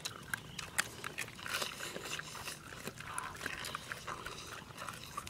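A person chewing and smacking her lips while eating: an irregular run of short wet clicks.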